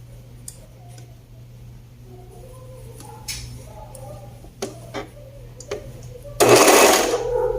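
Fabric and sewing pieces being handled on a worktable: scattered small clicks and taps, then a short loud rustle near the end, over a steady low hum.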